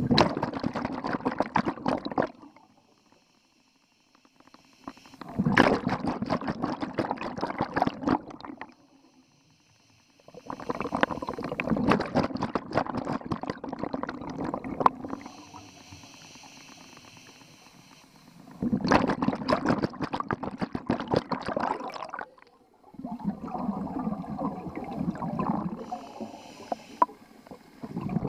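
A scuba diver breathing underwater through a regulator. Exhaled air bubbles out in about five crackling bursts of two to five seconds each, with short quiet pauses between them while the diver inhales.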